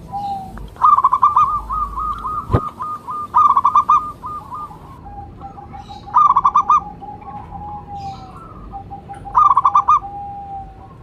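Zebra dove (perkutut) cooing: four bursts of quick, repeated notes, with a lower drawn-out coo running under the second half. A single sharp click about two and a half seconds in.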